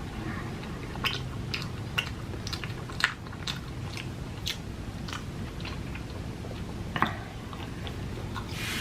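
A person chewing food close to the microphone, with irregular moist clicks and crunches, the loudest about three and seven seconds in.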